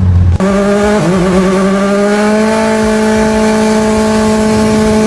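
High-revving car engine under load, starting suddenly about half a second in. Its note dips briefly about a second in, then holds high and climbs slowly and steadily.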